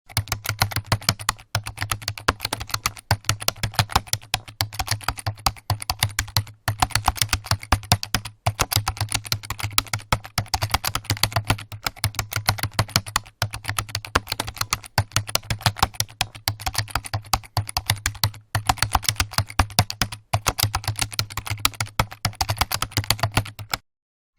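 Rapid, continuous typing on a keyboard: dense key clicks with brief pauses every few seconds, over a steady low hum.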